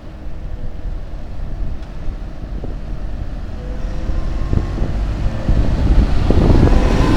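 A vehicle engine running, growing louder toward the end, with wind buffeting the microphone.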